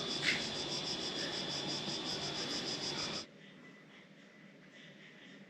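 A loud insect chorus, a rapid pulsing high-pitched chirring over a steady high whine, which cuts off suddenly about three seconds in, leaving only a faint background.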